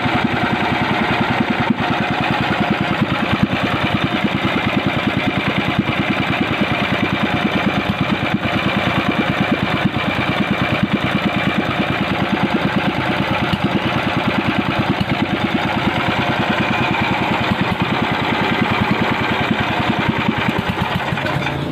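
Small engine idling steadily, with a fast, even pulse.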